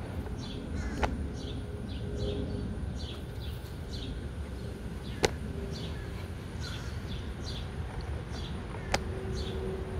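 A bird chirping over and over, short falling chirps one or two a second, over a steady low background noise, with three sharp clicks about one, five and nine seconds in.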